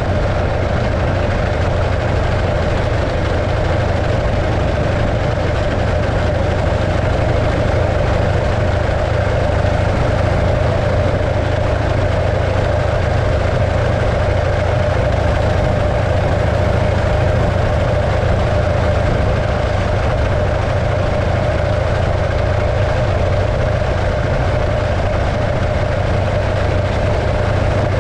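The 1915 Arcade motorcycle's 650cc JAP V-twin engine running steadily at an even speed, with no rise or fall in pitch.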